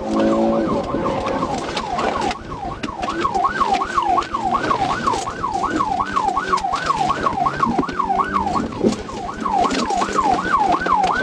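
Police car siren in yelp mode, its pitch sweeping rapidly up and down about two to three times a second, over the noise of the moving patrol car.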